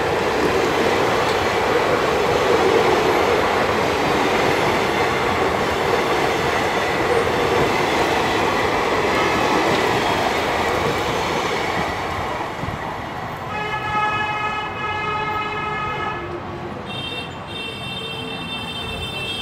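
Passenger coaches of an express train running past at speed: a steady rush of wheel and rail noise that eases about two-thirds of the way through as the last coach goes by. A steady high-pitched ringing tone then sets in from the receding train and holds, rising higher near the end.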